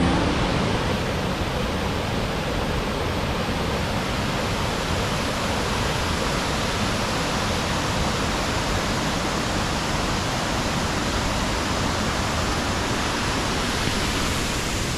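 Steady rush of a river flowing over rocks, an even roar of water without breaks.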